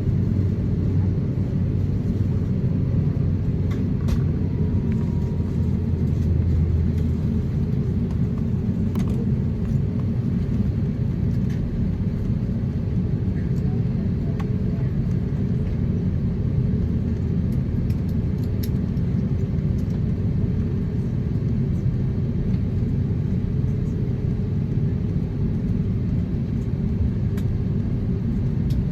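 Steady low cabin rumble inside an Airbus A350-900 taxiing on the ground, its Rolls-Royce Trent XWB engines running at taxi power. A few faint clicks sound over it.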